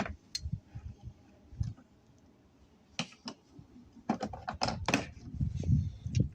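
Sharp metal clicks and clatter of a socket and ratchet being handled: a few scattered clicks, then a quicker run of clicks about four seconds in.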